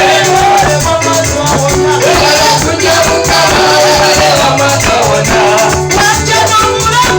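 Loud church praise music: a melody line over a repeating bass pattern, with a steady beat and a shaker.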